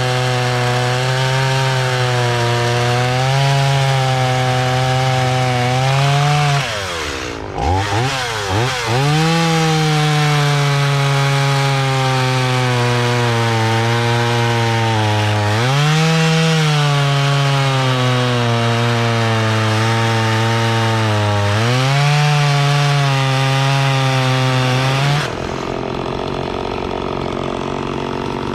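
Stihl MS170 small two-stroke chainsaw running hard, cutting wood with a 3/8 semi-chisel chain. Its engine note dips sharply and recovers about a third of the way in, sags a couple more times, then drops back toward idle near the end.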